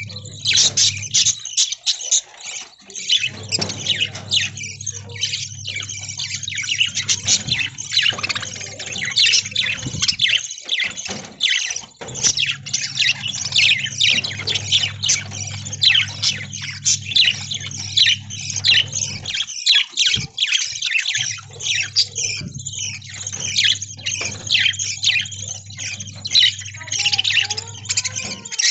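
A flock of budgerigars chattering and chirping, many rapid, overlapping high calls with sharper squawks mixed in.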